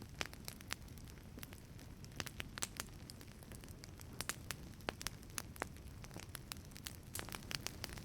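Wood fire burning in a wood-fired pizza oven: irregular sharp crackles and pops, several a second, over a low steady rumble of the flames.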